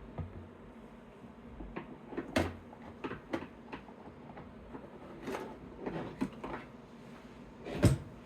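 Trading cards being handled and sorted by hand: an irregular series of soft taps, clicks and short slides as cards and card packaging are picked up and set down, the loudest about two and a half seconds in and again near the end.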